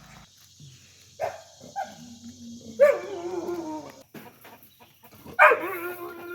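A dog whining: a couple of short cries, then two long, loud, drawn-out whines whose pitch drops and then levels off.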